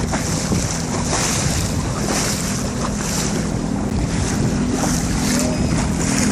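Jet ski engine idling with a steady low hum, under wind buffeting the microphone and water washing against the hull.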